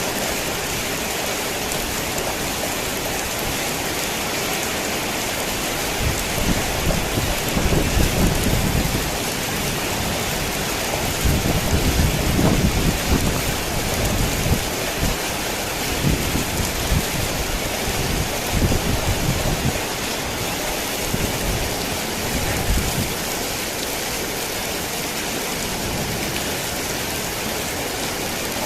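Heavy rain falling steadily on a tin roof. A low, rolling rumble of thunder comes in about six seconds in, swells twice and dies away several seconds before the end.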